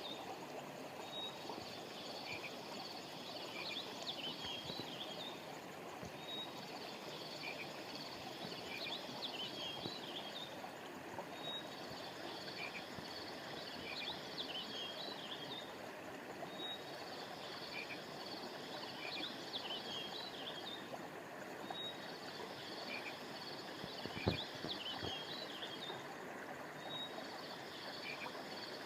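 A flowing stream with small birds chirping high overhead. The bird calls repeat in the same pattern about every five seconds, like a loop, and a single soft thump comes once late on.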